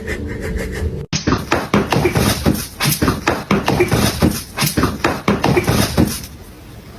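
A rapid, irregular run of knocks and clatters lasting about five seconds, after a brief bit of music at the start.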